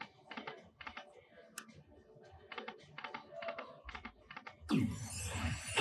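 Slot machine clicking, about three sharp electronic ticks a second. Near the end comes a sudden loud whoosh with a falling tone, leading into the machine's music.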